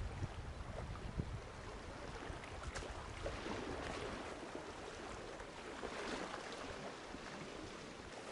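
Wind buffeting the microphone, a low rumble that is heaviest in the first few seconds, over a steady hiss of wind and rain.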